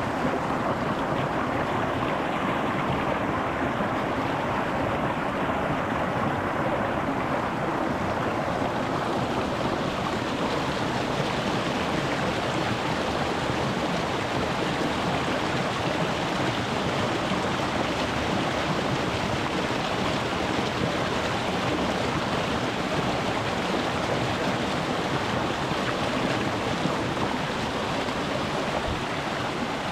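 Rocky mountain stream running over stones: a steady rush of water. About a third of the way in it turns brighter and hissier.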